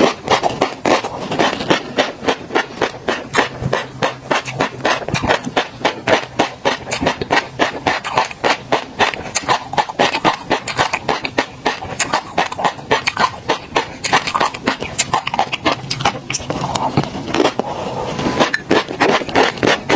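Close-miked mouth sounds of chewing mouthfuls of tobiko (flying fish roe) and garlic cloves: a dense, fast crackle of sharp popping clicks, several a second.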